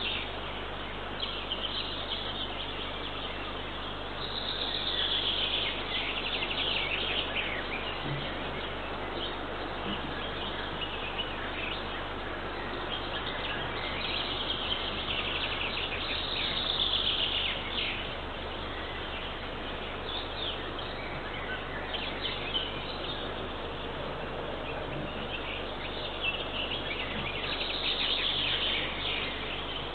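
Small songbirds singing in phrases a few seconds long that recur every several seconds, over a steady background hiss.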